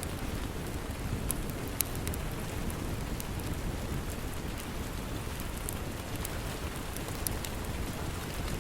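Steady, heavy rain with scattered sharp crackles and pops from a wood fire in a fireplace.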